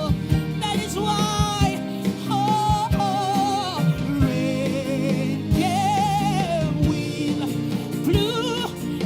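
Gospel worship song sung by a choir over a band, with sustained sung notes carrying a wavering vibrato above a steady bass and regular drum hits.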